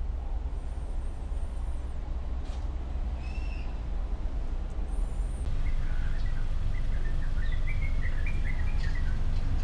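Birds chirping over a steady low rumble: a couple of short chirps in the first half, then a run of quick chirps over the last few seconds.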